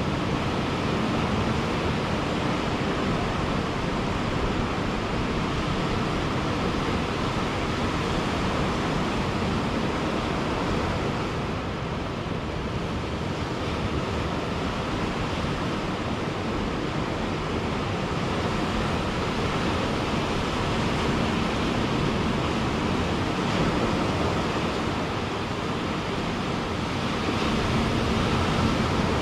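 Ocean surf: a steady wash of breaking waves with gentle rises and falls in loudness and no single clear crash.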